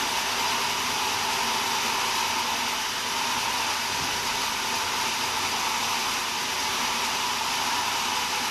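Sawmill saw running with a steady, even whir that holds one constant tone throughout.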